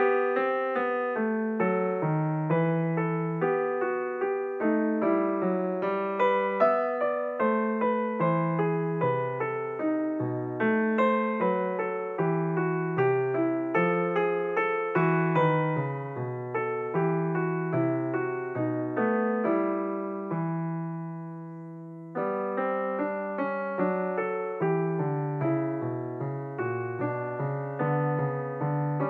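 Background piano music: a steady run of struck notes, with one chord left to fade out about twenty seconds in before the playing picks up again.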